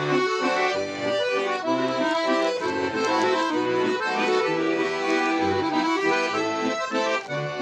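Russian garmon (button accordion) playing an instrumental passage of a folk song: a melody of held reedy notes over bass and chord accompaniment, steady and unbroken.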